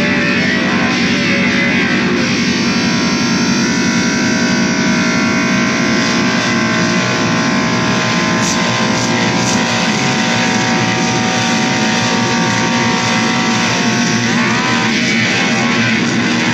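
Distorted electric guitar through effects, playing a dense, unbroken wall of noise with long held tones. A rising pitch slide comes about two seconds before the end.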